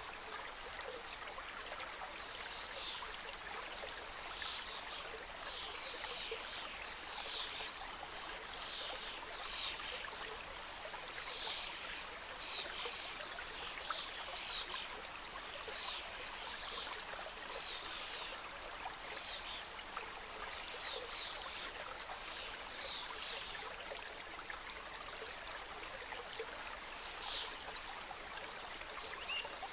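Mountain stream flowing and splashing over rocks, a steady rush of water. Short high peeps repeat about once a second over it, most densely in the middle stretch.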